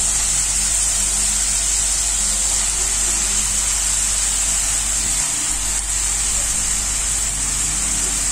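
Steady sizzling hiss of onion paste frying in oil in a kadhai as raw chicken pieces are added.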